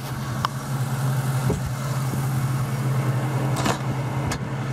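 1998 Ford Mustang GT's 4.6-litre V8 idling steadily with the hood open, running smoothly and quietly. A few light knocks from the camera being handled.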